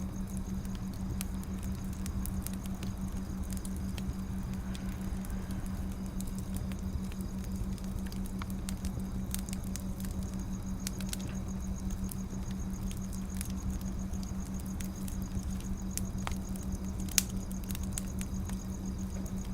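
Wood fire crackling, with scattered sharp pops and clicks over a steady low hum; one louder pop comes near the end.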